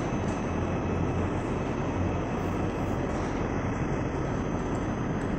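Steady low hum and rumble of an ICE high-speed train in a station train hall, with a faint high whine held throughout.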